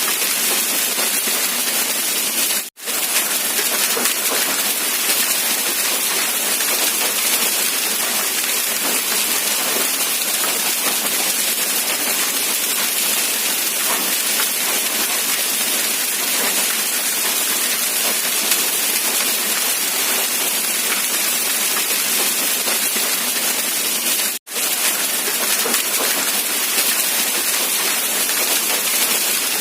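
Steady rain falling, a dense even hiss that cuts out for a split second twice: once about three seconds in and once near the end.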